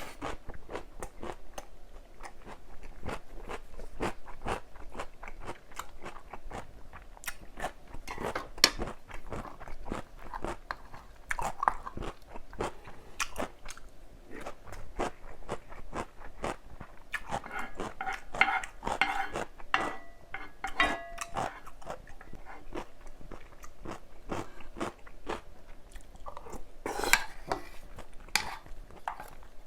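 Close-miked mukbang chewing: a mouthful of fresh vegetables crunching crisply, with many small irregular crunches in quick succession.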